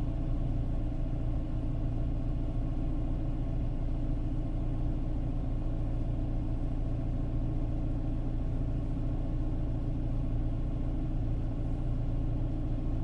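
Renault Clio III's 1.2-litre petrol engine, fitted with aftermarket LPG, idling steadily.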